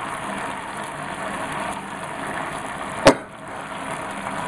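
Onions, green chilies and sauces sizzling steadily in hot oil in a frying pan, with one sharp knock about three seconds in.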